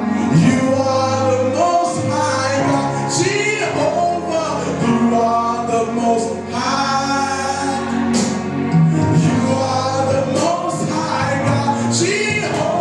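Gospel praise team singing a worship song, with male and female voices and a choir over a live band.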